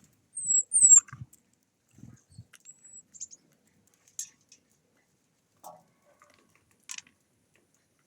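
Small bird giving two high, thin squeaky calls in the first second, then a fainter thin note about three seconds in, among scattered soft ticks and low thuds.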